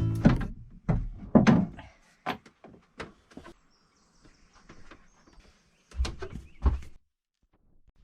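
Music ending in the first second, then a string of sharp knocks and clicks, followed by two heavier thuds near the end.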